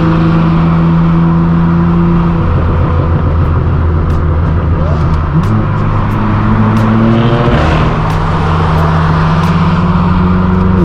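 Straight-piped BMW M4 F82's twin-turbo straight-six running steadily through its non-resonated AWE track exhaust. Its note changes pitch about halfway through and again a couple of seconds later.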